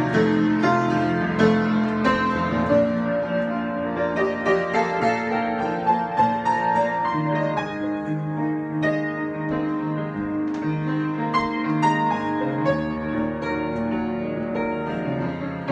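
Piano improvisation: a steady flow of notes over held chords.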